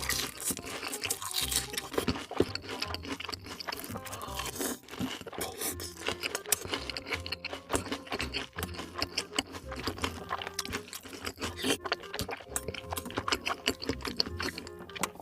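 Close-miked crunchy chewing and biting, many sharp crunches in quick, uneven succession, over background music.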